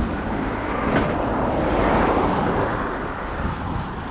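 Motor vehicle running, a steady rumble of engine and road noise, with a single brief click about a second in.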